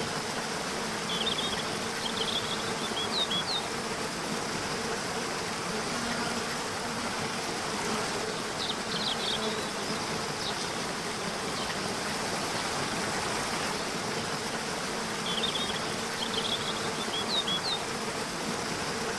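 Waterfall rushing in a steady roar of water. Over it, short high bird chirps come in three brief bursts, near the start, about halfway and near the end.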